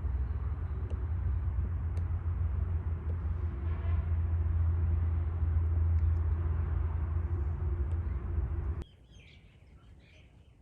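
Steady rushing of a flowing stream with a deep low rumble, which cuts off abruptly near the end. Birds chirping follow in the quieter background.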